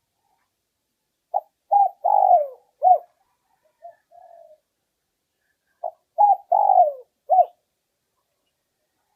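Spotted dove cooing: two phrases of four notes each, the third note longer and falling, with a softer short call between them. It is the male's territorial coo used as a lure call.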